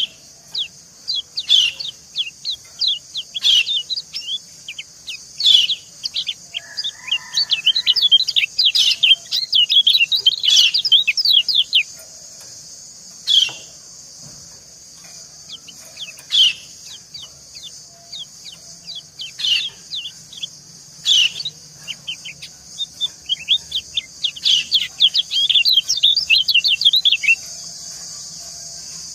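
Yellow white-eyes calling: short, high, quick chirps repeated about every second or two. Around the middle and again near the end they break into dense runs of rapid twittering. A steady high hiss runs underneath.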